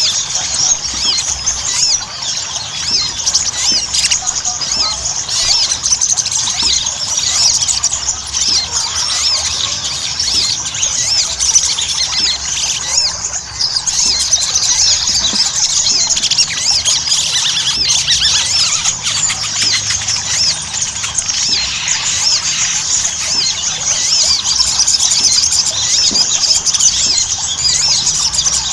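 Sogon (little spiderhunter) singing in a dense, continuous run of rapid high-pitched chattering notes, many overlapping without a break: the loud 'gacor' song used to provoke other sogon into singing.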